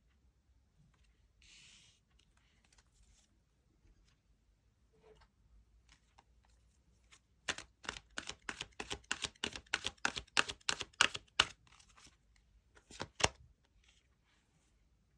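Tarot cards being handled and shuffled: soft rustling, then a quick run of sharp card snaps about five a second for a few seconds, and two more snaps near the end.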